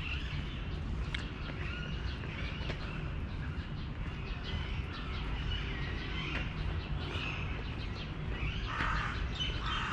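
Small birds chirping and calling on and off, over a steady low rumble.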